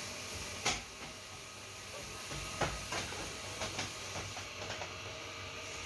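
Steady hiss with a few scattered light knocks and clicks: the first about half a second in, then a cluster in the middle.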